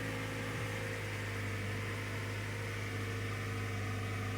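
Toyota Camry's 2.4-litre four-cylinder engine idling steadily, warming up after a coolant refill.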